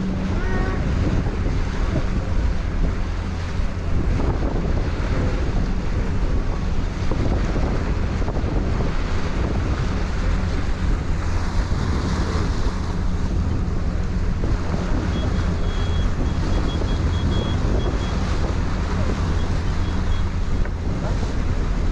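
Wind buffeting the microphone on a ferry's deck, over a steady low drone from the ferry's engine and the rush of water along the hull.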